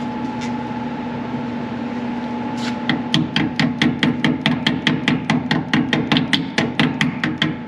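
A hammer tapping in a fast, even run of light strikes, about five a second, starting a few seconds in, as a brake clip is tapped into place. A steady mechanical hum from a shop fan runs underneath.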